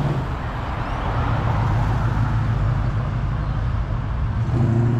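Classic car's engine running with a steady low note, as the car moves slowly past at close range.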